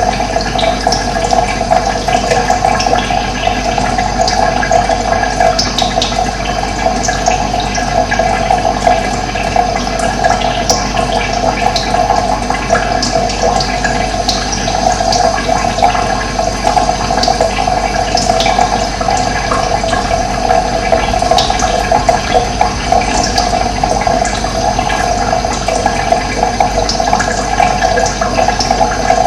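Running water rushing and gurgling steadily, with short high bird chirps scattered throughout.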